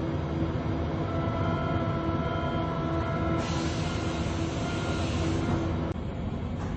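Berlin U-Bahn train running along the track: a steady low rumble with a steady motor whine. About halfway a high hiss joins in. Near the end the whine stops and the rumble drops a little.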